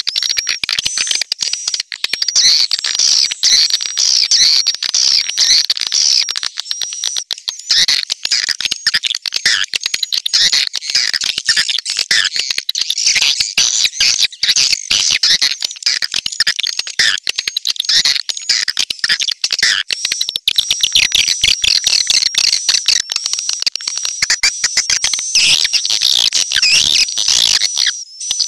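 Swiftlet lure call track: dense, rapid, high chirping of a swiftlet colony, with a steady high tone running underneath. It is the kind of call played from a swiftlet house to draw swiftlets in to roost and nest.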